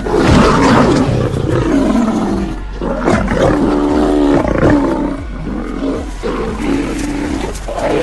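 Lions growling and snarling in a run of harsh calls while attacking a buffalo bull, loudest in the first second or two.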